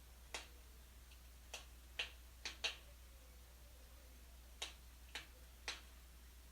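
Burning wood in a fireplace crackling: about eight sharp, irregular pops, two of them close together a little after two seconds in.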